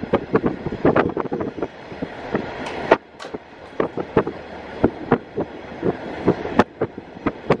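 KiHa 48 diesel railcar running, heard from inside through an open window: a quick, irregular clatter of wheels over the track, over a steady bed of running noise and wind.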